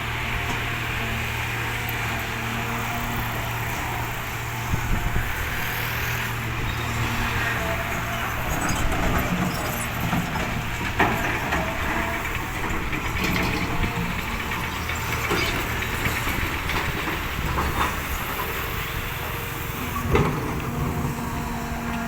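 Heavy earthmoving machine's diesel engine running steadily, with scattered clanks and knocks; the sharpest come about eleven and twenty seconds in.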